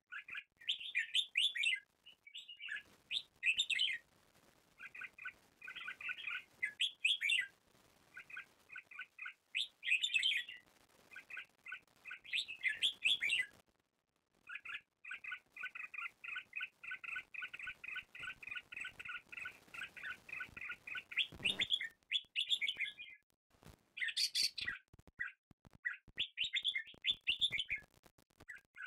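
Small birds chirping in repeated bursts, with a fast, even trill that runs for several seconds in the middle.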